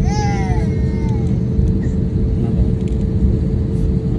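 Steady low drone of a vehicle cabin in motion, with a constant hum over it. About a second long at the start, a high, falling, voice-like whine, like a small child whimpering.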